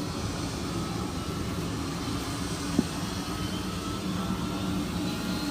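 A jet airliner's engines starting up at a distance: a steady hum with a faint high whine that rises slightly near the end.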